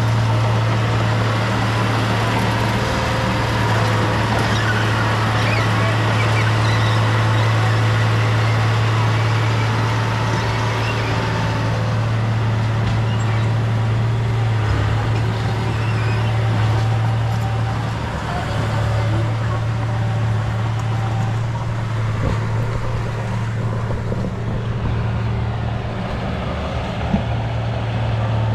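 Heavy diesel earthmoving machine, a bulldozer or dump truck, with its engine running steadily at a constant low drone. There is one brief knock near the end.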